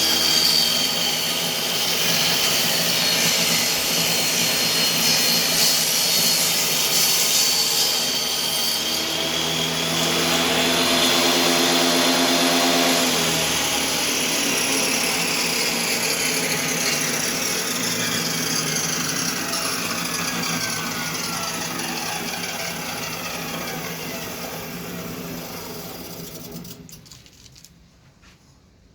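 Power saw motor running at speed while cutting wood. After it is switched off, the blade coasts down with a long falling whine, fading out near the end.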